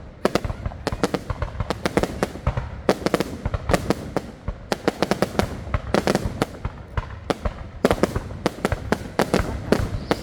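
Fireworks going off in a dense, irregular barrage: several sharp bangs a second without pause, some louder than others.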